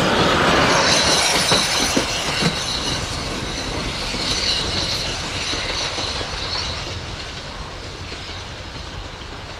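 Heritage train's passenger carriages rolling past on the rails and drawing away, wheels clicking over the rail joints in the first few seconds. The sound fades steadily as the train recedes.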